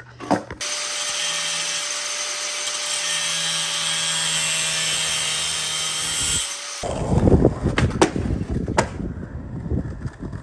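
A steady, hissing mechanical whir for about six seconds, then skateboard wheels rolling on concrete: a low rumble with sharp clicks about a second apart.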